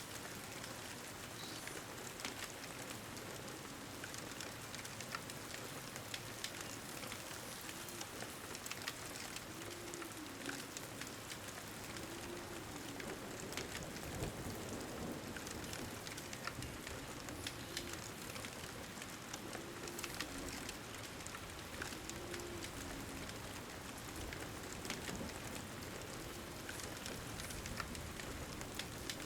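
Steady pouring rain, with scattered small pops and clicks from a crackling wood fire.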